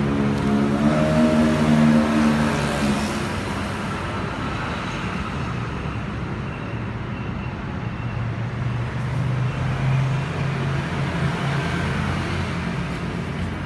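A motor vehicle engine running, louder and rising slightly in pitch over the first few seconds, then settling into a steady low hum.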